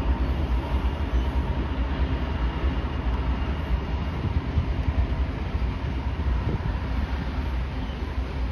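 Canadian Pacific coal train's cars rolling past on the rails, a steady low rumble of wheels on track.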